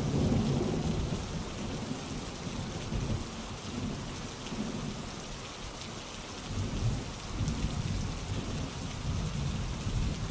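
Steady rainfall, with low rolling thunder that swells and fades a few times.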